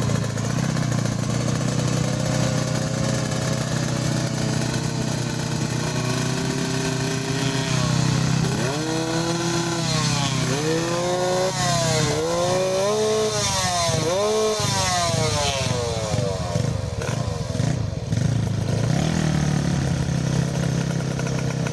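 Motorcycle engine idling, then revved in a string of quick throttle blips, each pitch rising and falling, before it settles back to idle near the end.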